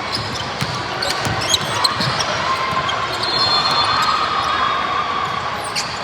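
Ball bouncing on a hard indoor court, with scattered knocks and spectators chattering in a large echoing hall.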